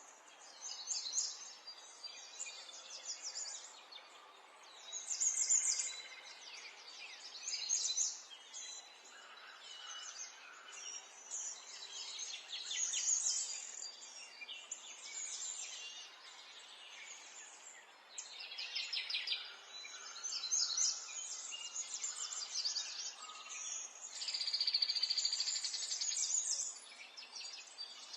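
Small songbirds chirping and trilling in rapid bursts, several overlapping, with a faint steady background hiss of outdoor ambience.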